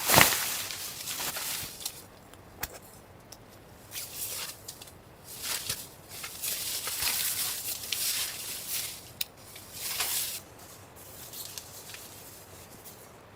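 Irregular bursts of rustling and crunching with a few sharp clicks, loudest right at the start and thinning out over the last couple of seconds.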